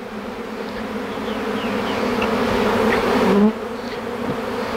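A swarm of honey bees, just dumped from a bucket into a box, buzzing close by in a dense steady hum. The hum swells over the first three seconds and drops back a little about three and a half seconds in.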